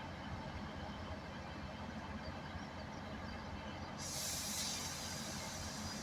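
Diesel multiple-unit train standing at the platform with its engine running, a steady low rumble. About four seconds in comes a sudden sharp hiss of air, typical of the train's air brakes being released or vented.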